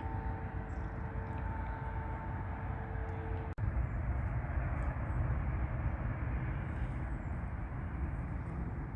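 Jet airliner engines running, a steady rumble with a steady whine over it; the whine stops at a sudden break about three and a half seconds in, after which the rumble goes on.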